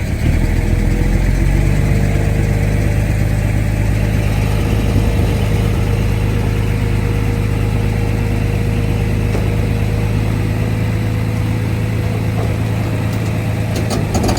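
Heavy diesel engine of earthmoving machinery running steadily under load, growing louder just after the start and holding an even drone. A few rattles come near the end.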